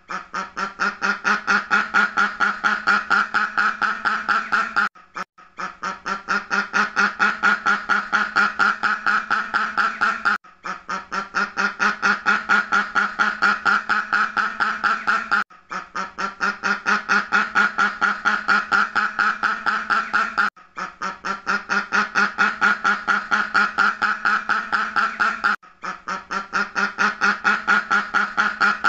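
Duck quacking in a rapid, even string of quacks. The quacking comes in stretches of about five seconds with a brief break between each.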